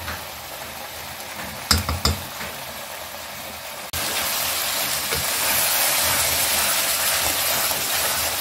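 Chicken karahi sizzling in desi ghee in a wok as the yogurt gravy cooks down, with a couple of light knocks about two seconds in. About four seconds in the sizzling turns suddenly much louder and steady as the chicken is stirred and fried.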